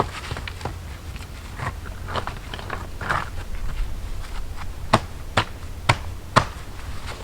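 Irregular crunching and small clicks, then four sharp knocks about half a second apart in the second half.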